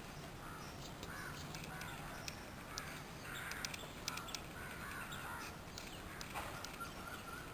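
Faint bird calls outdoors: short cries repeating about once a second, with scattered small high clicks.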